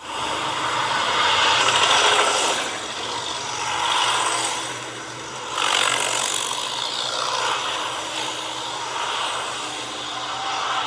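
Tractor engine running with a rattling, scraping clatter of the machine; the sound swells and eases several times.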